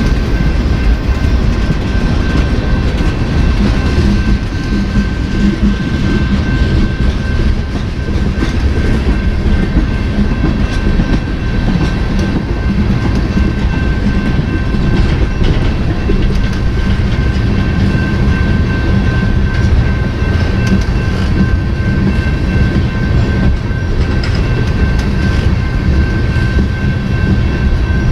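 Freight train cars rolling past at close range: a steady heavy rumble, with the wheels clicking over the rail joints and a thin steady high ringing tone running through it.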